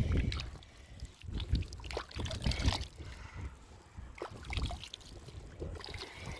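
Irregular scraping and knocking with low thumps, the sound of hands working with materials.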